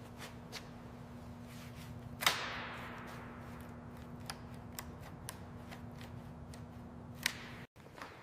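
Workshop tool and metal handling sounds: scattered light clicks and taps over a steady low hum. One sharp strike about two seconds in rings on and dies away, and another sharp click comes near the end.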